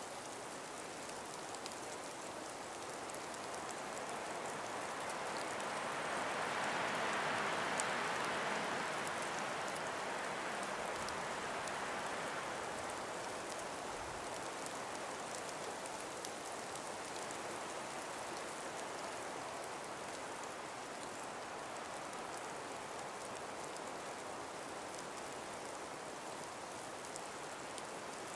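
A calm breeze moving through ice- and snow-laden forest trees, a steady hiss that swells into a gust about seven seconds in and then eases back. Faint scattered ticks sound through it.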